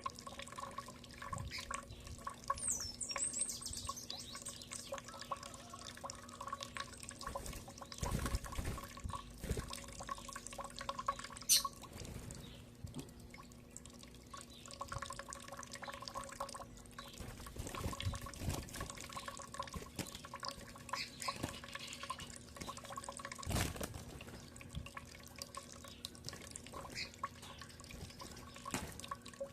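Birds feeding, with scattered small taps and clicks and a short burst of high, quick chirps about three seconds in, over a faint steady hum.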